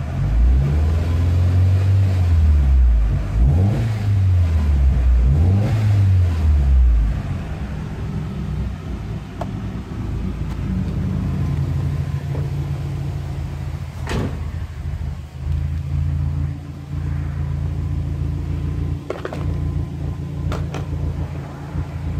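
Subaru Forester XT's turbocharged 2.5-litre flat-four, freshly fitted with a Blouch 20G-XT turbo, revved up and down three times, then settling to a steady idle while still warming up. A single sharp click sounds about midway through the idle.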